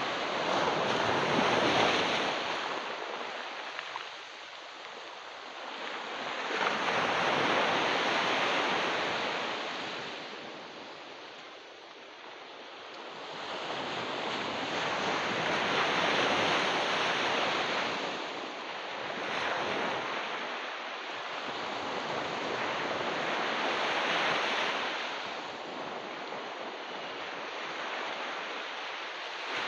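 Ocean surf washing onto a beach: a steady rushing hiss that swells and recedes as each wave comes in, about every five to eight seconds.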